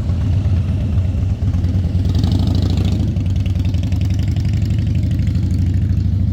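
Motorcycle engines running close by: a steady low rumble, with a brief surge of harsher, higher sound about two seconds in.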